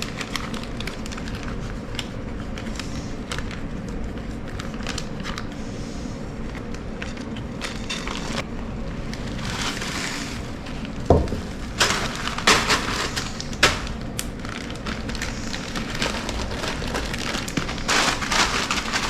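Dehydrated rice cracking and crunching as it is broken off its drying paper, with paper crinkling: scattered small crackles at first, then louder bursts of crunching in the second half, over a steady low hum.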